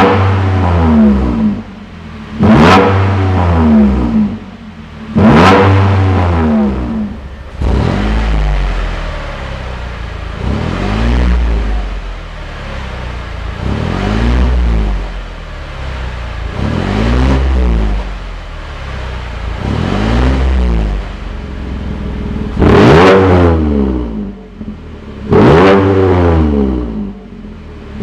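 Chevrolet Colorado pickup engine through an aftermarket mid-pipe variable-valve exhaust, revved again and again in short blips, about one every three seconds, each rising and falling away. The revs over the middle stretch are clearly quieter than the loud, deep ones at the start and near the end.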